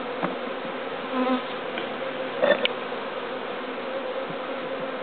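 Honeybee colony buzzing steadily in an opened hive during an inspection, with a light knock about two and a half seconds in.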